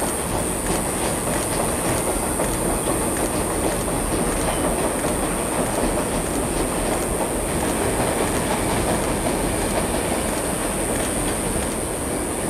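Passenger train coaches rolling across a steel girder railway bridge: a steady rumble with wheel clatter over the rail joints.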